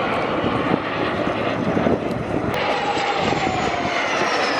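Small twin-engine jet aircraft running, a dense roar of its two small turbines with a high whine that falls slowly in pitch from about halfway through.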